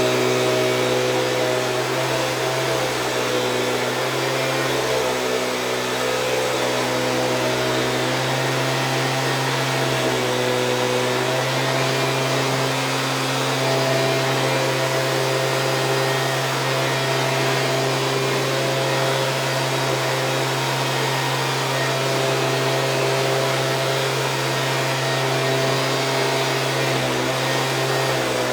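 Stihl BG 86 handheld leaf blower's small two-stroke engine running steadily with the rush of its fan, warming up after a cold start. The engine note wavers slightly a few times.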